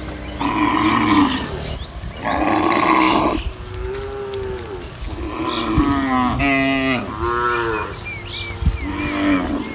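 A herd of cattle mooing, about seven calls one after another, some overlapping: two rough, loud moos in the first few seconds, then clearer calls that fall in pitch.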